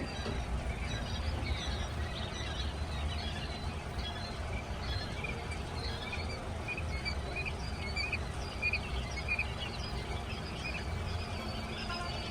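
Young chicks peeping: many short, high cheeps overlapping without pause, over a steady low rumble.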